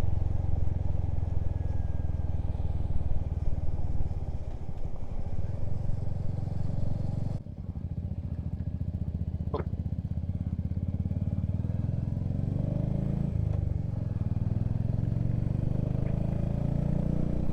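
Motorcycle engine running under way on a bumpy road, with wind and road noise on the rider's microphone. The sound dips suddenly about seven seconds in, and later the engine note climbs a couple of times as the bike pulls away.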